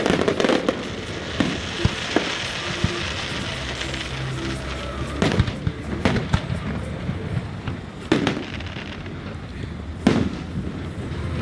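Aerial fireworks going off: a crackling burst near the start, then single loud bangs about five, eight and ten seconds in, each fading out briefly. A steady low hum and some music run underneath.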